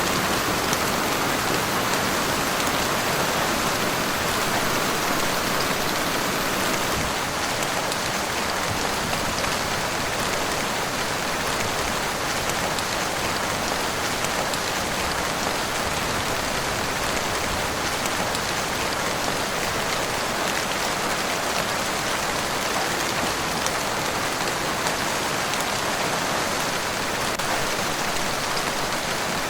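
Heavy rain falling steadily, a dense, even hiss of drops striking a surface.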